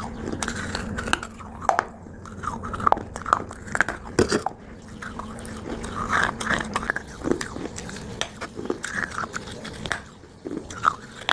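Someone biting and chewing dry multani mitti (fuller's earth clay), with irregular crisp crunches.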